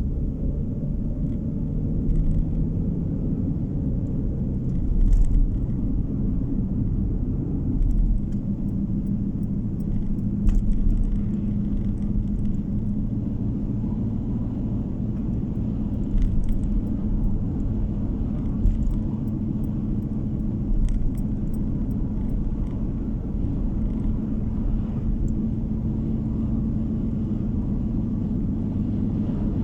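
A car in motion, heard from inside the cabin: steady low road and engine rumble, with a few brief thumps from bumps in the road.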